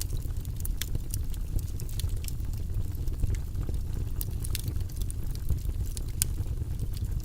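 Wood fire burning in a fireplace: a steady low rumble of flames with frequent irregular crackles and sharp pops of burning wood.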